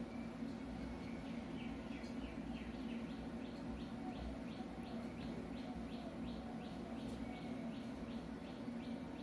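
A bird chirping in a fast, even series, about three short high chirps a second, over a steady low hum.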